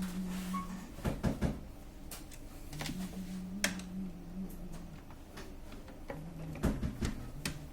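Small clicks and taps of a screwdriver and metal screws as the sensor plate of an Epson PLQ-20 printer is unscrewed, with an on-and-off low hum.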